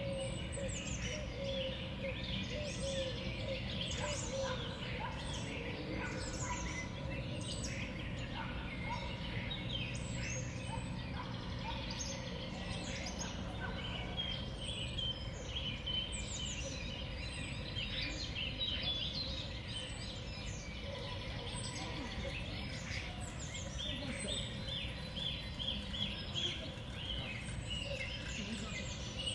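Many small songbirds chirping and calling at a feeder, a steady stream of short, high chirps over a low background rumble.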